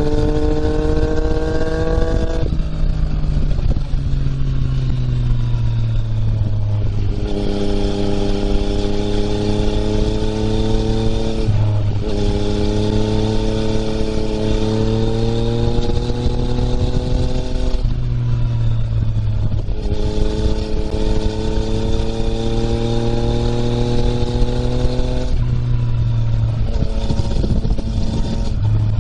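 Yamaha MT-09's three-cylinder engine running through an Akrapovič exhaust while riding, rising in pitch on the throttle and falling back when it eases, several times over. While it pulls there is a higher hiss that drops out off the throttle: the 'shaa' noise that the owner hears only under throttle and cannot trace.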